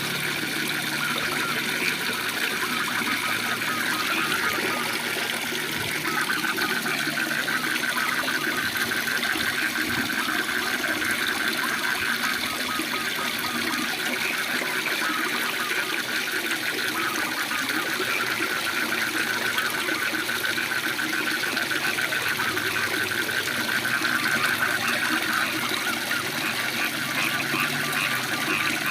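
A waterfall's steady rush of water, with frogs calling in long, fast, pulsing trills over it and a second, higher trill joining near the end.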